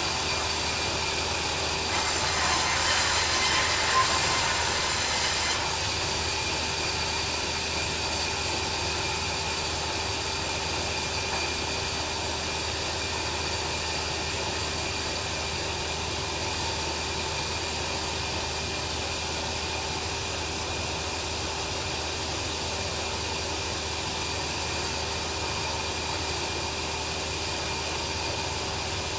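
Bandsaw sawmill running steadily with a hum of several steady tones; about two seconds in it turns louder and noisier for a few seconds, then settles back to a steady run.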